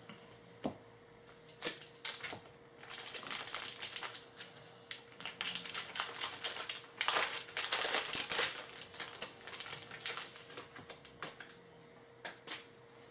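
A trading-card pack being opened by hand: a few light clicks, then about seven seconds of dense crinkling and rustling of the pack wrapper, tapering off into scattered clicks and card handling.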